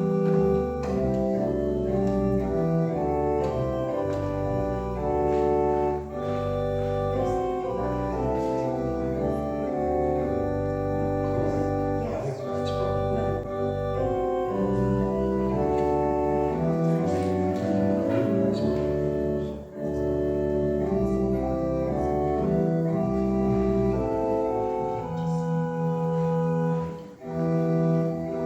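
Organ playing slow music in held chords over a sustained bass line, with short breaks between phrases.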